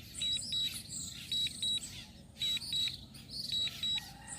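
DJI RC-N1 drone remote controller beeping a low-battery warning: pairs of short, high beeps about once a second. Birds chirp behind it.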